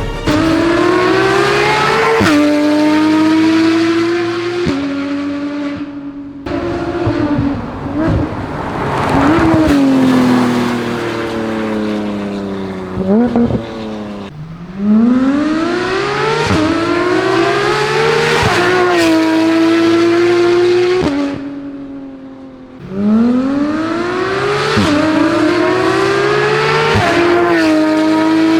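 2015 Porsche 991.1 GT3 RS's 4.0-litre naturally aspirated flat-six, breathing through an IPE titanium full exhaust with 200-cell catted headers, accelerating hard three times. Each time its note climbs and drops sharply at quick upshifts, and between the pulls it eases off the throttle with a few short revs.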